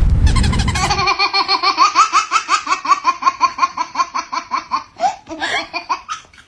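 A loud boom dies away in the first second, then a long run of rapid laughter follows, about four to five 'ha's a second, fading out near the end.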